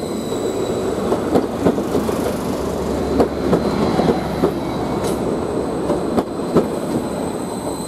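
Greater Anglia Class 755 multiple unit rolling along the track: a steady rumbling run with a low hum, and its wheels clicking irregularly over rail joints and points.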